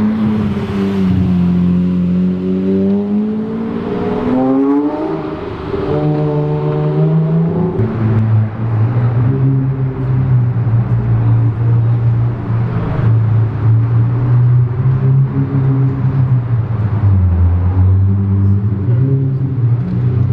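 Lamborghini Murciélago's V12 engine driving at low speed, with one quick rev about four to five seconds in, after which it runs steadily at low revs.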